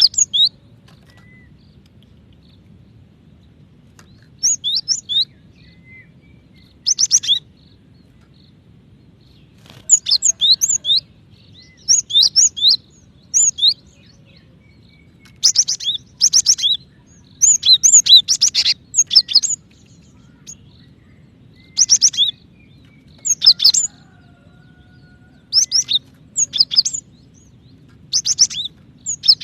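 Female cinereous tit (gelatik batu) calling for a male: repeated bursts of quick, high chirps, each burst under a second long, with pauses of one to two seconds between them, over a faint steady low hum.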